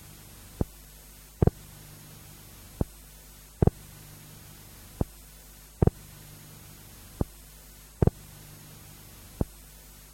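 Low thuds repeating in a steady rhythm, about one every second, some of them doubled, over a steady electrical hum.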